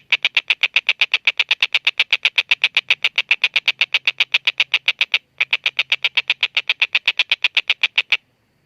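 Tengkek buto kingfisher giving its long, fast rattling call: a run of sharp notes at about eight to nine a second, with a short break about five seconds in. The call stops shortly before the end.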